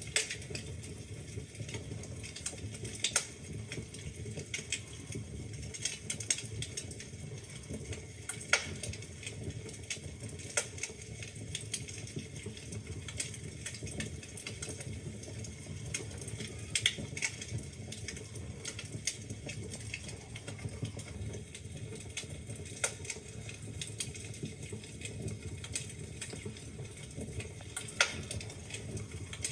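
Wood fire burning in a fireplace, crackling and popping in irregular sharp snaps over a low steady rumble of the flames. A few louder pops stand out among many small crackles.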